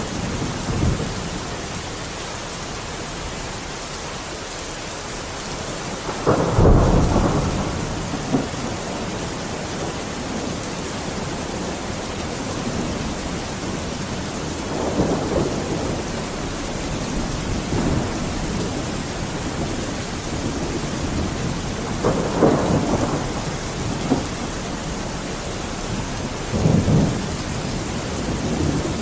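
Steady heavy rain hissing, with rolls of thunder rumbling in several times; the loudest crack and rumble comes about six seconds in, and smaller rolls follow later.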